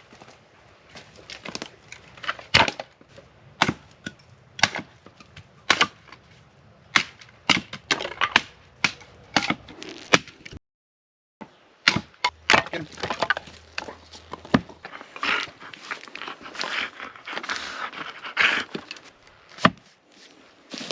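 Dry sticks and wood being broken up for kindling: a string of sharp, irregular cracks and snaps, sparser at first and coming thicker in the second half. The sound cuts out completely for about a second around the middle.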